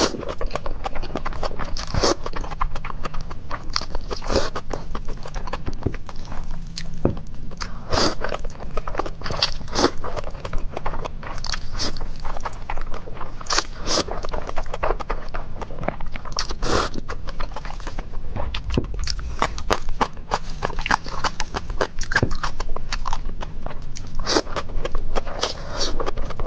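Close-miked eating of spicy instant noodles with runny egg: steady wet chewing and biting, with many quick mouth clicks and smacks coming in an irregular stream.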